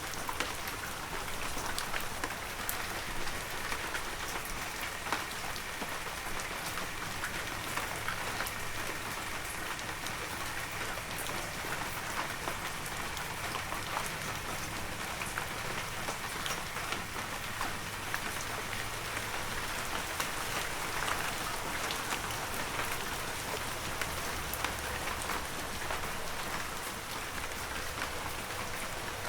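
Heavy rain falling steadily, a dense hiss with many individual drops hitting surfaces.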